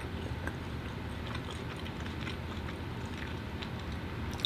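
Faint chewing of a mouthful of food: small, scattered mouth clicks over a steady low hum.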